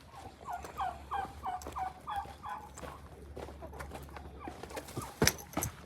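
A turkey calling a quick series of about eight short, falling notes, then a sharp knock about five seconds in.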